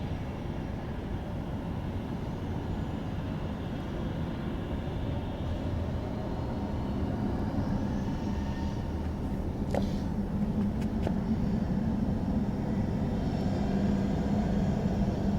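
Jet engines of a Boeing 737-800 (CFM56) at takeoff power, a wide rumble that slowly builds in loudness as the airliner rolls for takeoff, with a steady low hum joining about six seconds in. Two faint clicks near the middle.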